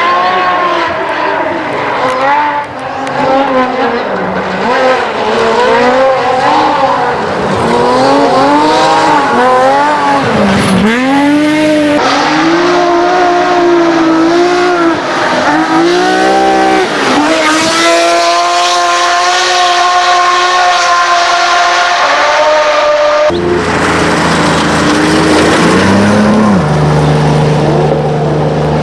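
Rally car engines revving hard, the pitch climbing and dropping again and again through gear changes and lift-offs as the cars pass. About 23 seconds in, the sound cuts abruptly to another car with a steadier engine note.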